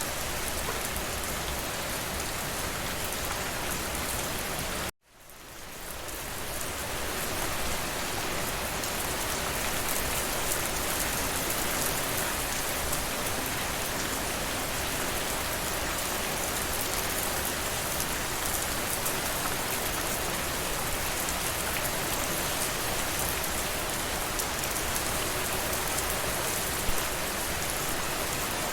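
Steady rainfall. It cuts out abruptly about five seconds in, then fades back up over a couple of seconds.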